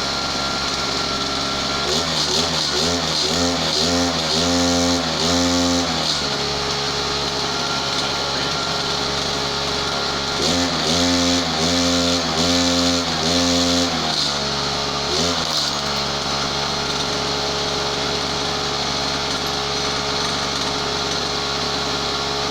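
Small two-stroke brushcutter engine idling steadily, revved in two runs of quick throttle blips a few seconds long, with one more single blip after the second run.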